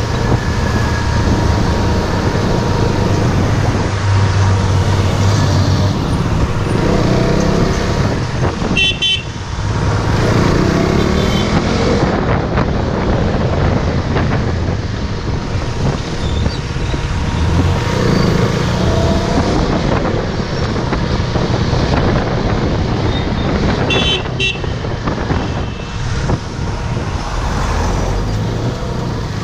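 KTM RC 390's single-cylinder engine pulling through traffic, its pitch climbing and dropping again and again with throttle and gear changes, over steady wind and road noise. Vehicle horns honk in the traffic.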